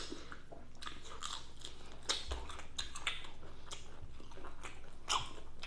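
Close-up mouth sounds of someone biting into and chewing crunchy fried food: a run of irregular sharp crunches with wetter chewing between them.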